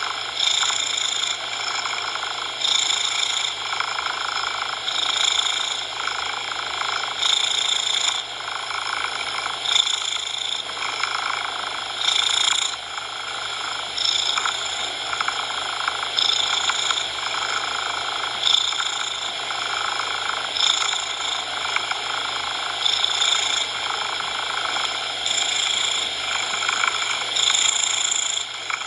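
Cat purring continuously, swelling and easing with each breath about once a second.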